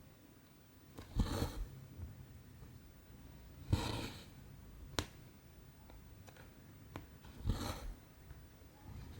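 Cotton thread being pulled through 14-count cross-stitch canvas, stitch by stitch: a short swish three times, about every two to three seconds, with a single sharp click between the second and third.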